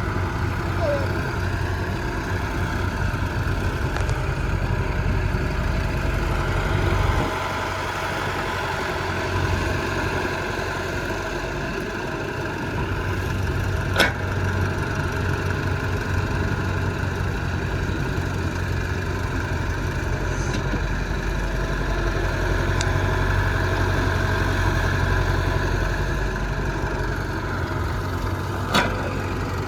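Diesel engines of earthmoving machinery running steadily at an even pitch, with a sharp knock about halfway through and another near the end.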